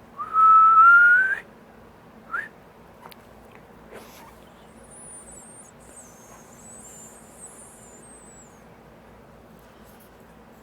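A person whistles one long, slightly rising note, then a short upward chirp about a second later, calling a dog. Faint high bird twittering follows in the middle.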